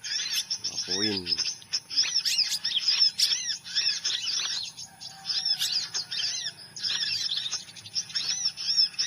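Sunbird calls: rapid, high, arched chirps repeating almost without pause, with a short low call about a second in.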